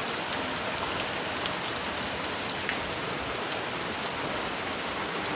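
Heavy downpour falling steadily: an even hiss of rain with scattered sharp ticks of drops striking close by.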